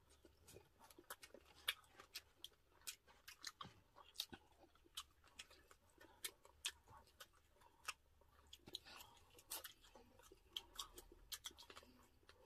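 Faint chewing and lip-smacking of people eating roast chicken with their hands: many small, scattered clicks and smacks.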